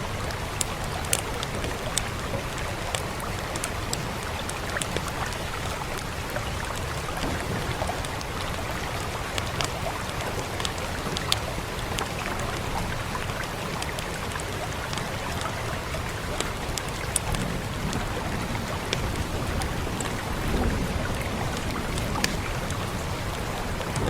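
A wood fire crackling, with sharp pops scattered irregularly throughout, over the steady hiss of rain.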